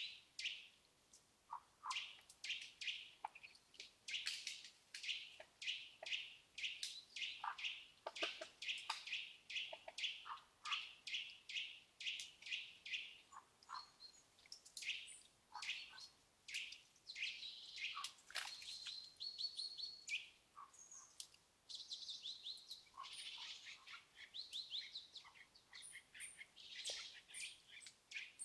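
Faint woodland birdsong: several birds chirping in quick series of short high notes, with rapid trills now and then.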